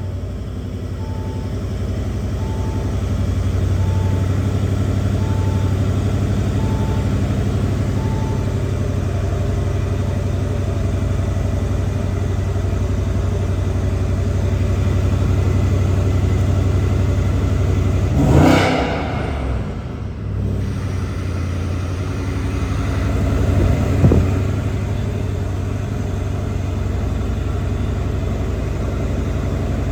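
2021 Audi RS6's twin-turbo 4.0 V8 with an Akrapovic exhaust idling steadily. It gives one sharp rev that rises and falls back about two-thirds of the way through, and a shorter blip a few seconds later. A soft beep repeats about every second and a half for the first several seconds.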